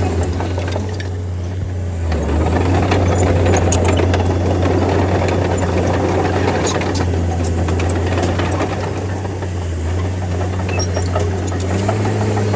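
D30 bulldozer's diesel engine running steadily, with scattered light clicks and clanks over it. The engine note eases briefly about two seconds in and again near ten seconds.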